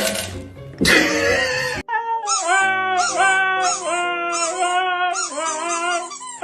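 A loud rushing noise for nearly two seconds that cuts off abruptly. Then a string of cat-like meows repeated in an even rhythm, about one every 0.7 s, over steady low held notes, like a meow song added as music.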